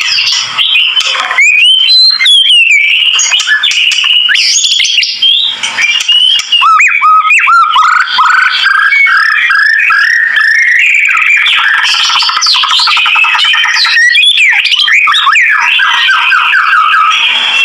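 White-rumped shama singing a loud, continuous, varied song: clear whistled glides and sweeps, giving way about eight seconds in to fast runs of rapidly repeated chattering notes.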